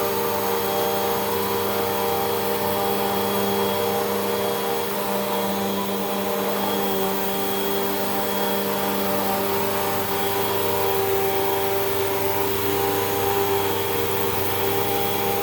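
Hoover WindTunnel 2 Rewind upright vacuum cleaner running steadily: a constant motor hum and whine over the rush of air.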